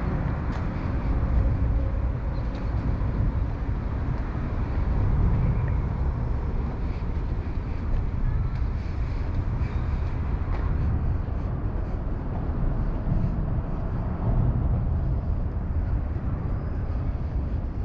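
Steady outdoor city ambience, a continuous low rumble of traffic.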